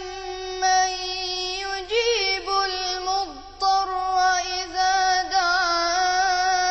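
A child's voice chanting Quran recitation in a melodic tajweed style, holding long notes at a steady pitch with ornamented turns about two seconds in and again around five seconds, over a faint low hum.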